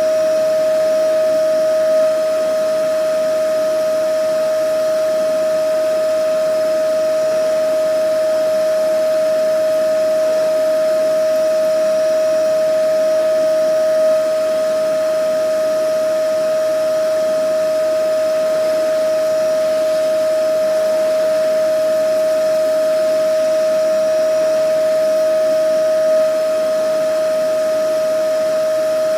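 Vacuum cleaner running steadily: an even motor whine at one pitch over the rush of air, with a slight swell in level about every twelve seconds.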